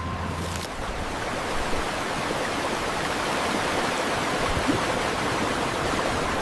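Steady hiss of rushing water, with a low hum cutting off within the first second.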